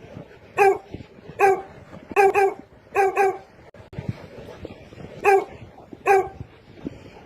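A dog barking: about eight short, sharp barks, some in quick pairs, with a pause of about a second and a half midway.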